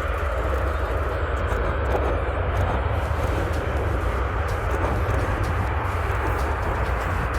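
Virgin Australia Boeing 737's CFM56 jet engines running as the airliner comes in: a steady, quite loud jet noise with a deep low rumble underneath.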